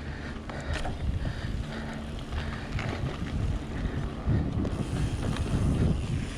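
Trek Remedy 8 mountain bike rolling down a dirt trail: steady tyre rumble with scattered knocks and rattles from the bike, and wind buffeting the helmet camera's microphone.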